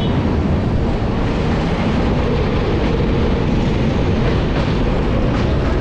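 Ahmedabad–Barauni Express passenger train running along the track: a steady, loud noise of the wheels on the rails.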